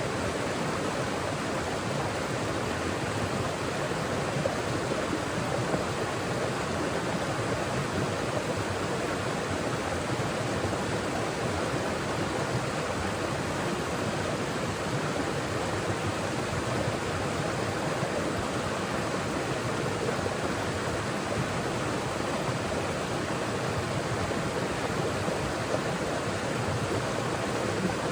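Forest stream flowing: a steady, even rush and babble of running water.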